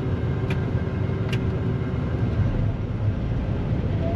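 Combine harvester running steadily under load while threshing soybeans, a continuous low drone with a faint steady tone over it. Two brief sharp clicks about a second apart near the start.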